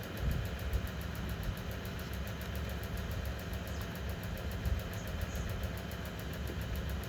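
Steady low rumble, like a motor or engine running at idle.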